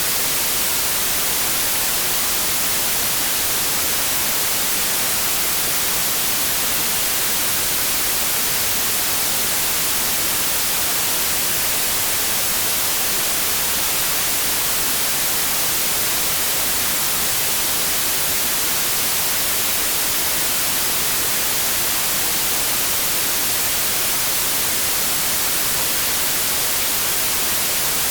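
Steady, unbroken white noise: an even, hissing static with no changes.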